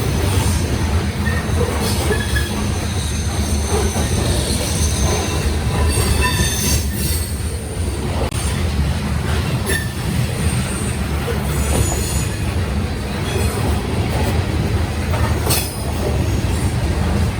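Grain train's covered hopper cars rolling past, with a steady low rumble of wheels on rail, thin high wheel squeal coming and going, and occasional sharp clicks from the wheels and rail joints.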